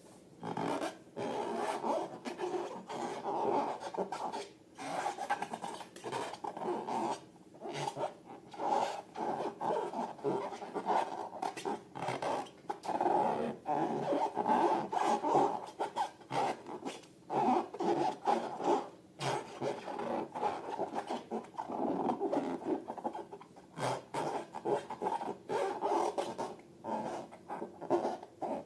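Glossy slime being squished, stretched and kneaded by hand, with sticky, irregular squelches and small air pops, and a quicker run of pops near the end.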